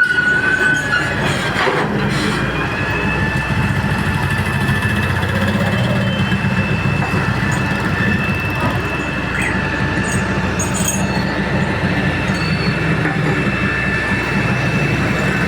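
Heavy-duty excavator working, its diesel engine running with a steady low drone and a steady high-pitched whine over it from about two seconds in.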